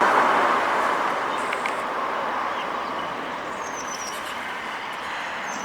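Road noise from a passing vehicle, loudest at first and slowly fading away, with a few faint bird chirps near the end.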